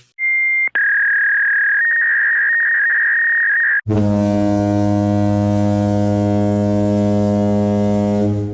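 A run of stock electronic sound effects: a short high beep, then a steady high tone for about three seconds that steps slightly in pitch partway through, then a long low buzzing horn tone that stops abruptly near the end.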